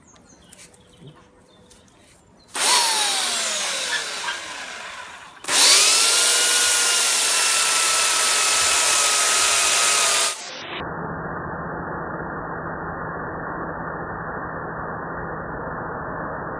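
Chainsaw revved, its pitch falling away as it slows. It is revved again and held at high speed for about five seconds, then gives way to a dull, low, steady drone with the high end cut off: the saw's sound slowed down.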